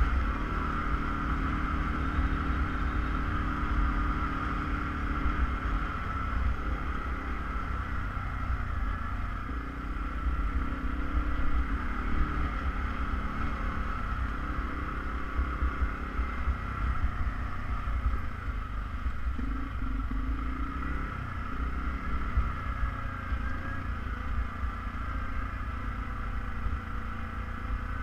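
ATV engine running steadily while riding, with a constant low rumble and small shifts in engine pitch.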